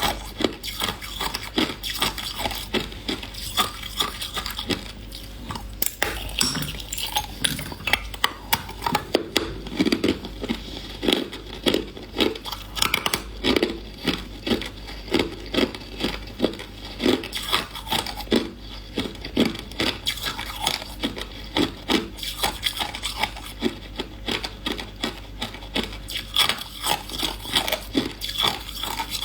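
Hard ice being chewed: repeated sharp, irregular crunches, a few a second.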